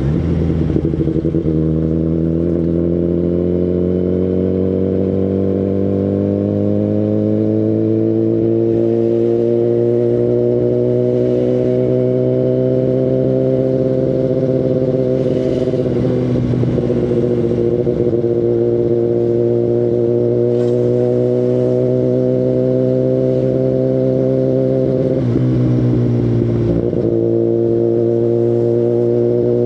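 Kawasaki Ninja ZX-10RR's inline-four engine running through an Akrapovic Evolution Line carbon full exhaust while riding. The engine note climbs slowly over the first half and dips briefly around the middle. It drops twice in quick succession near the end, then holds steady.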